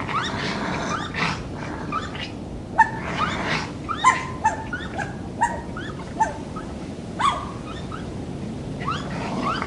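Raccoon giving a rapid series of short, high squealing and whining calls, most of them dipping in pitch, with a lull near the end before they start again, over a steady low hiss.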